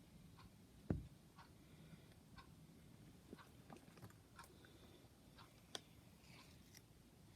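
Near silence with faint, scattered clicks and one soft knock about a second in.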